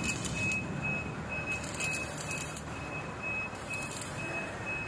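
Crackling hiss of an arc welding arc that comes and goes in stretches, over a low hum. A high electronic beep repeats about twice a second throughout.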